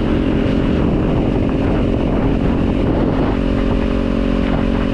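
Kawasaki Z400's parallel-twin engine running steadily, its pitch nearly constant, with wind rumble on the microphone.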